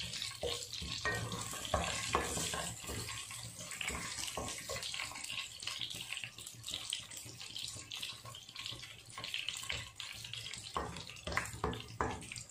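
Green chillies, chana dal and urad dal sizzling and crackling in hot oil in a nonstick pan, stirred with a wooden spatula, with a few sharper clicks near the end. This is the tempering (oggarane) frying until the dals turn golden.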